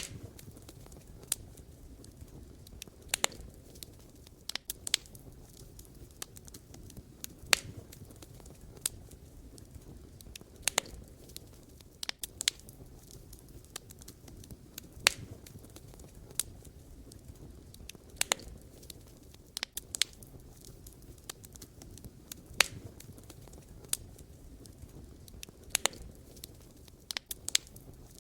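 Wood fire crackling: sharp, irregular pops and snaps of burning firewood, some in quick clusters, over a steady low rumble of the flames.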